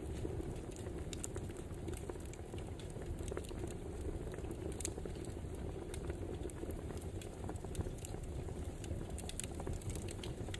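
Wood fire crackling: a steady low hiss with many small irregular pops and snaps.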